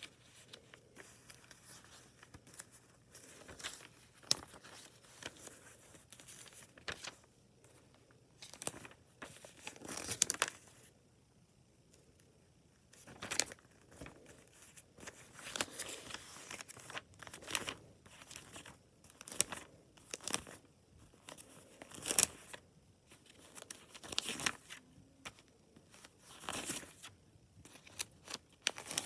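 Irregular bursts of crinkling and rustling from toy truck parts and their packaging being handled during assembly.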